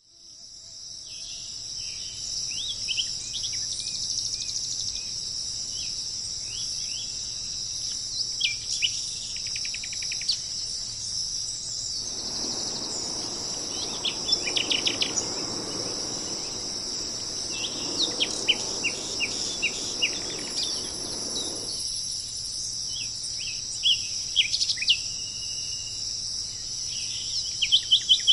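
A steady, high-pitched insect chorus, like crickets, with short, quick bird chirps and calls scattered over it. A soft rushing noise swells in from about twelve seconds in and fades out about ten seconds later.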